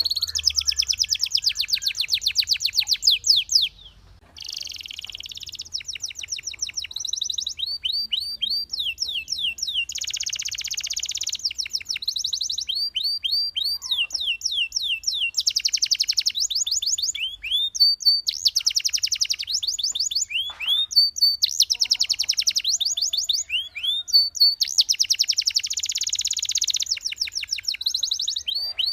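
Belgian canary singing a continuous song of fast trills, each built from quickly repeated upward-sliding notes, broken by short held whistle notes between phrases.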